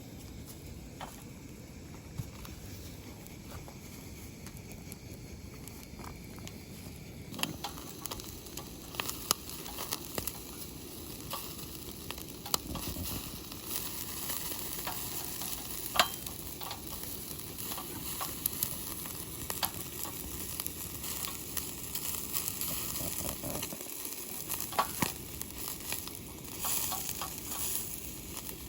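Food sizzling in a frying pan, growing louder about a quarter of the way in, with scattered sharp clicks of a utensil against the pan.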